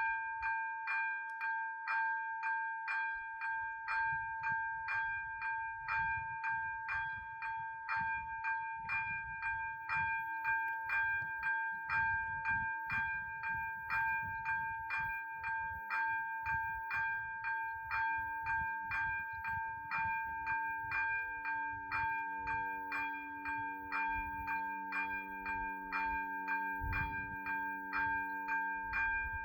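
ZV-02 electronic level-crossing bells ringing their warning, a steady high ding about twice a second. From about a third of the way in, a low engine hum grows beneath them and is loudest near the end: a train approaching the crossing.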